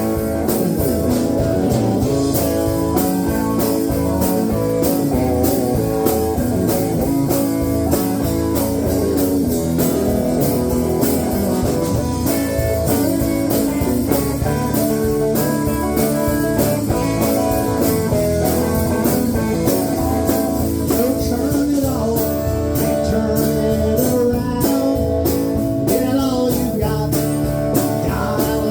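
Country band playing an instrumental break between verses: guitar carrying the lead over bass and a steady drum beat.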